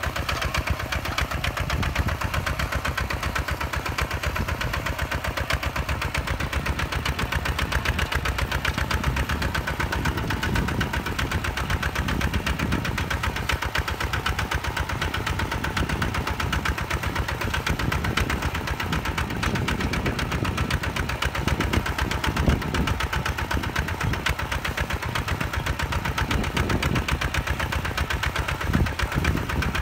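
Single-cylinder diesel engine of a Hinota HG Gold 155 DI tractor running steadily, with a rapid, even chugging.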